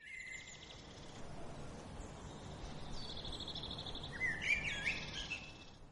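Small birds chirping and calling over a faint, steady outdoor background hiss, with a rapid trill about three seconds in and a cluster of warbling calls near the end.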